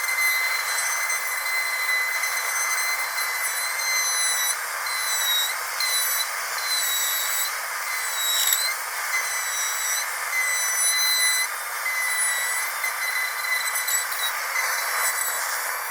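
Dentist's drill running with a steady high-pitched whine over a hiss of air. The pitch dips briefly a few times, most deeply about halfway through.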